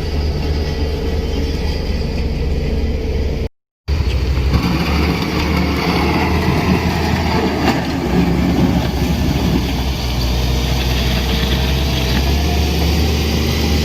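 A vehicle engine running steadily, with a deep hum; the sound drops out completely for a split second about three and a half seconds in, then carries on.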